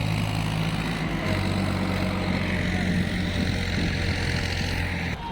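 Heavy diesel engine running steadily at an even speed, dropping slightly in pitch about a second in.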